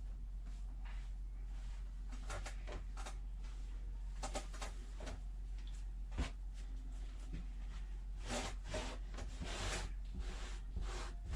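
Short brushing strokes through a freshly shaved cat's loose clipped hair, a few at first, then coming thick and fast about eight seconds in, over a steady low hum.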